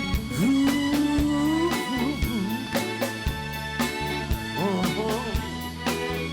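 Live soul band playing, with drums on a steady beat about twice a second under bass and keyboard chords. A singer holds one long "ooh" near the start, then sings bending ad-lib runs.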